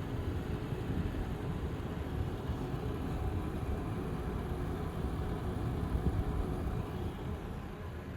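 Zotac Twin Edge RTX 3070 graphics card fans running with a steady, rough low rattle, the fan rattling fault on this card.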